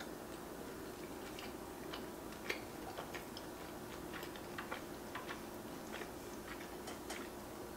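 A person chewing a mouthful of cheeseburger with the mouth closed, close to the microphone: irregular small wet mouth clicks, one sharper click about two and a half seconds in. A faint steady hum runs underneath.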